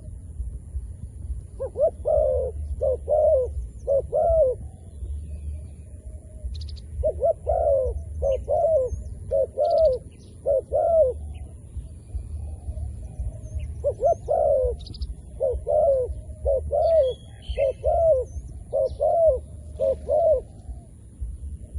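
A captive decoy dove cooing in three bouts of repeated, evenly spaced coos, the longest near the end, calling to draw in wild doves. A few faint high chirps from other small birds are heard around it.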